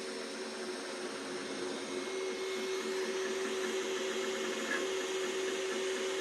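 Two Trees Sapphire Plus CoreXY 3D printer running mid-print: a steady mechanical hum with a faint high whine, a little louder from about two seconds in. It carries an unexplained sound whose source the owner has yet to find, though the print shows no skipping.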